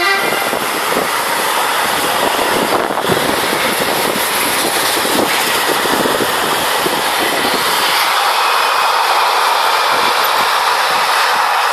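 Freight train of tank wagons rolling past close by: a steady, loud noise of wheels running on the rails, with no horn.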